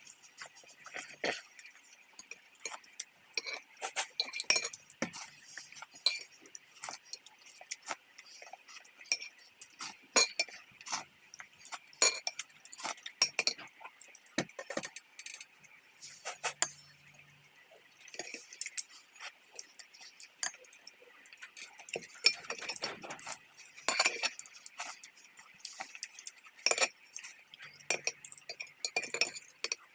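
Eating utensils clinking against dishes and glassware at a hotpot meal: many irregular, short clinks and taps, over a faint steady hiss.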